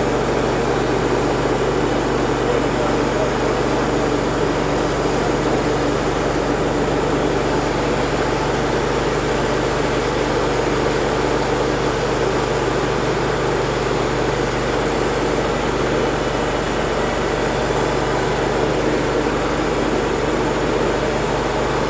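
Wood-Mizer LT35 hydraulic band sawmill with its 25-horsepower engine running steadily under load while the band blade saws along a log.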